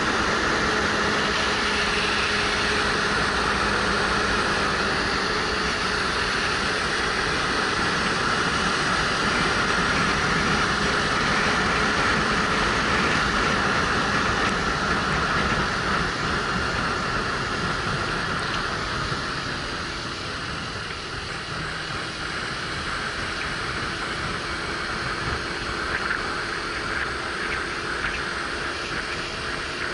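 Riding on a Suzuki GW250 motorcycle: wind rush over a helmet-mounted action camera mixed with the bike's 250 cc parallel-twin engine running at speed. It eases off somewhat about two-thirds through.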